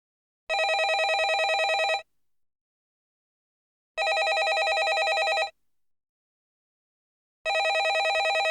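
Landline telephone ringing in a regular cadence: a trilling ring lasting about a second and a half, then about two seconds of silence. Two full rings, with a third starting near the end.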